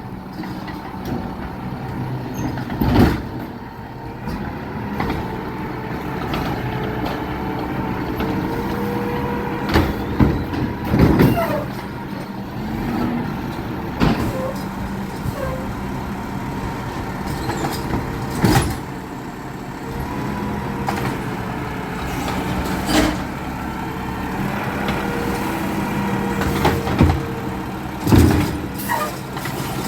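Garbage truck engine running steadily, broken every few seconds by short, loud bursts of sound.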